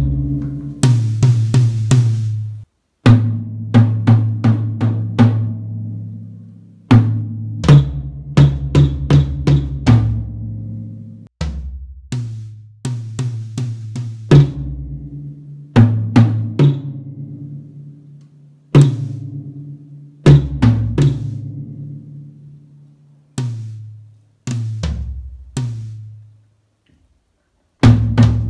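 Drum kit played in short phrases of quick strokes. Each phrase rings out and dies away before a brief silent pause and the next phrase.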